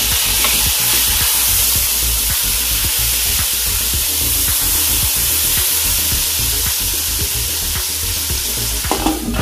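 Chopped tomatoes frying in hot oil with onions and cumin in a cooking pot: a loud, steady sizzle, with faint clicks of a spoon stirring.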